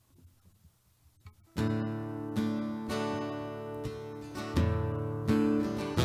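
Acoustic guitar strumming chords to open a worship song. It comes in suddenly about a second and a half in, after a few faint clicks, and a deeper bass joins about halfway through.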